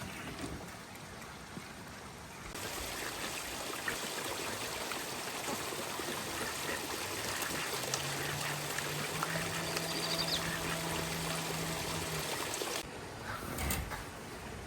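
Water running steadily for about ten seconds, starting abruptly a couple of seconds in and cutting off sharply near the end. A low steady hum sounds alongside it for a few seconds in the latter half.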